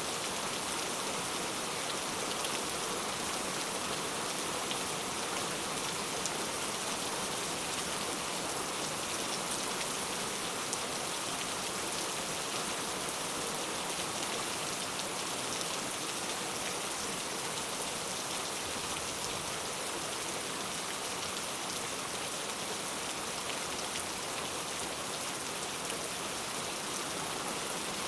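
Steady rain falling, a constant hiss of drops hitting a surface with faint small patters, unchanging throughout.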